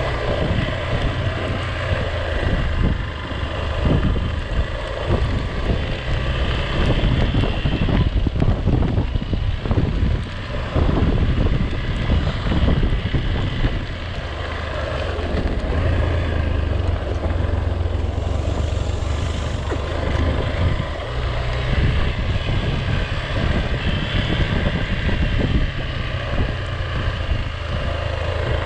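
A vehicle running steadily with a deep low rumble, and wind buffeting the microphone.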